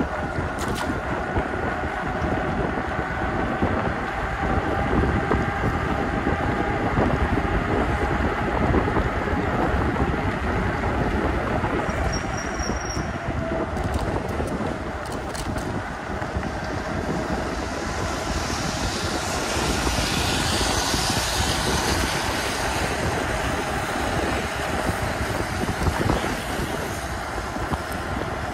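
Riding noise of an e-bike in the rain: steady wind and road rush on a chest-mounted microphone, with faint whining tones. A higher hiss swells for a few seconds past the middle.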